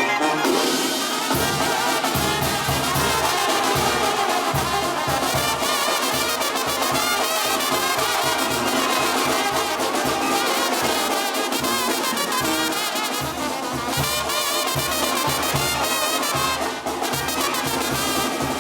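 Sinaloan-style banda brass band playing live in an instrumental passage: trumpets and trombones carry the melody over a low bass line that pulses in a steady beat from about a second in.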